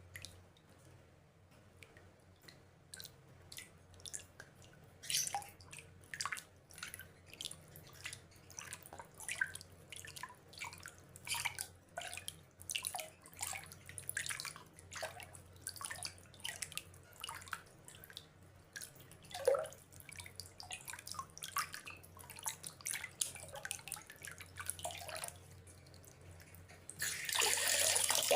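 Water drops dripping irregularly, one or two a second, some louder than others. About a second before the end, a steady rush of pouring water or heavy rain starts abruptly.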